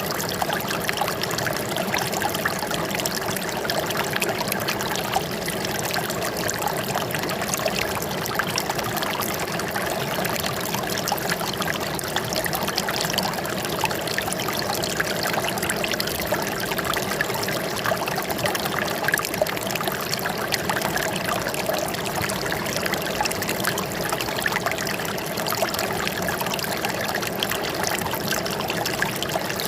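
Running water trickling and splashing steadily, with many small bubbling spatters and no change in flow.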